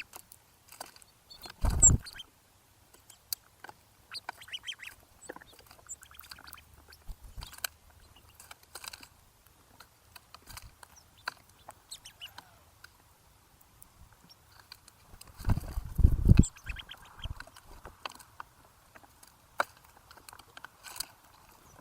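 Backyard birds calling with scattered short clicks and chirps, and two loud thumps close to the microphone, one about two seconds in and another around sixteen seconds.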